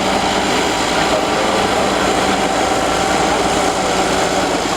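Old Caterpillar D8 bulldozer's diesel engine running steadily with a constant mechanical drone.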